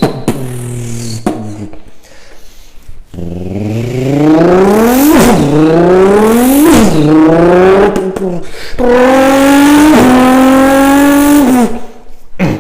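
A person imitating a car engine with their voice: a revving note climbs in pitch and drops back twice, like an engine shifting up through the gears, then a second, steadier held engine note.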